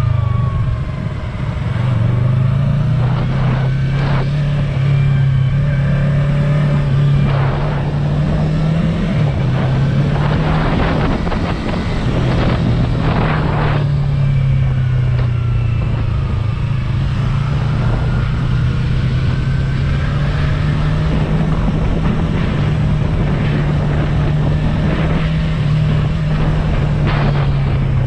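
Yamaha R3's parallel-twin engine heard through its stock exhaust while riding. The engine note steps up and down with throttle and gear changes.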